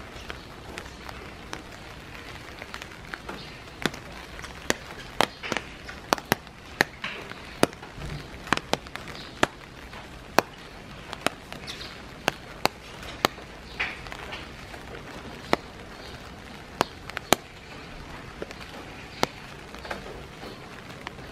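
Steady rain, with irregular sharp taps of large drops landing close by, some of them loud.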